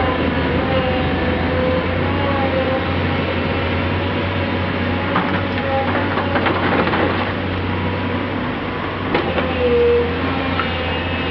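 Heavy diesel earthmoving machinery working: a steady engine drone with a wavering whine on top, scattered clanks in the middle, and a louder whine about ten seconds in.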